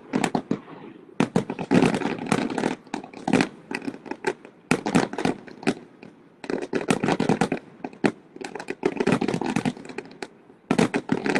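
Aerial fireworks going off in rapid volleys of sharp bangs and crackles, in several clusters separated by brief lulls.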